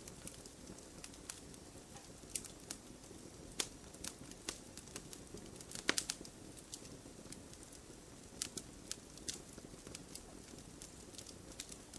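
Wood campfire crackling: irregular sharp pops and snaps, several a second, over a soft steady rush of the flames. The loudest pop comes about halfway through.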